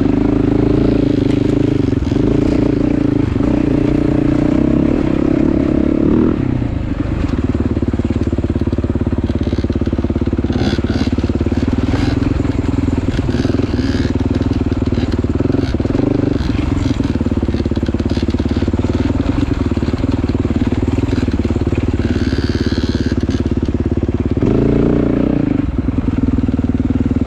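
Motorcycle engine running while riding, heard from on board: it runs harder for the first six seconds, eases off through the middle, and picks up again near the end.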